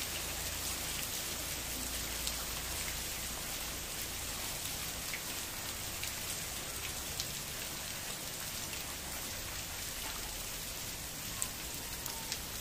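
Heavy rain pouring steadily onto wet ground, grass and paving, with a few sharper single drop taps standing out.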